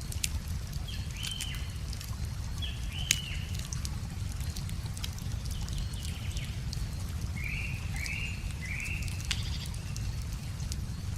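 Wood fire crackling with sharp irregular pops over a steady low rush of flowing river water. A bird calls with short notes throughout, three of them in quick succession about two-thirds of the way in.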